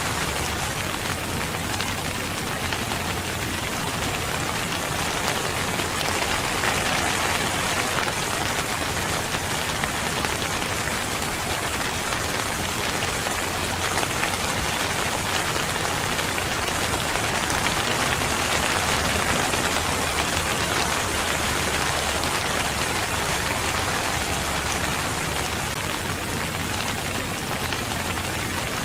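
Steady rain falling: an even, unbroken hiss of many drops on a surface, without thunder.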